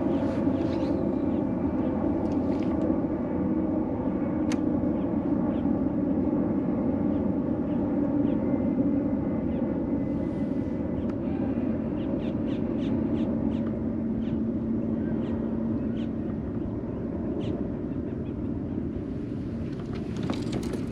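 A boat motor running steadily, with a few light clicks and ticks over its hum.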